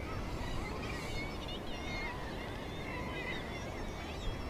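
A cliff seabird colony with many birds calling at once: overlapping short, harsh calls, with wind rumbling on the microphone underneath.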